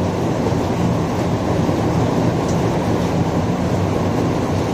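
Heavy rain falling, a steady dense rush of noise that is strongest in its low, deep range and never lets up.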